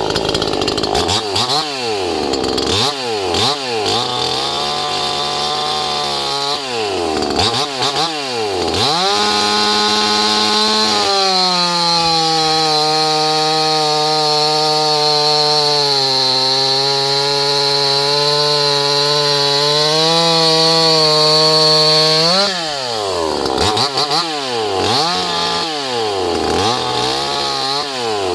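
Stock 58 cc Chinese two-stroke chainsaw, a Heinner VMF001, blipping its throttle several times. It is then held at full revs and drops in pitch as the chain bites into the wood and cuts under load. Near the end it is blipped up and down again.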